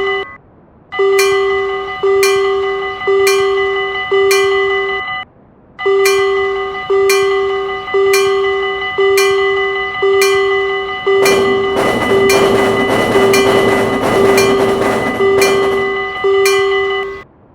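Railroad crossing warning bell ringing, struck about once a second, with two short breaks. About eleven seconds in, the rushing noise of a passing train joins the bell.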